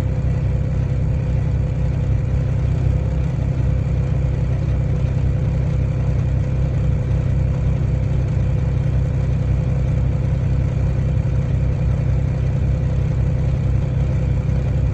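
Truck engine idling steadily, a low even drone with a constant higher hum over it.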